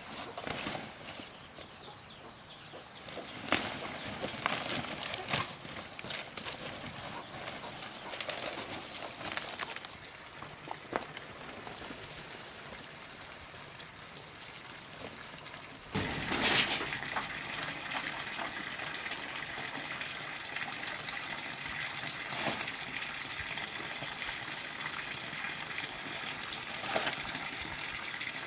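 Scattered light knocks and clicks, then about halfway through water suddenly starts gushing and keeps flowing steadily.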